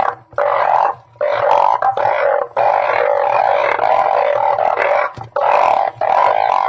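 Blunt-headed burrowing frogs (Glyphoglossus molossus) calling in a chorus: low, drawn-out croaks one after another with short breaks, running together into an unbroken din for a few seconds in the middle. A faint steady hum lies underneath.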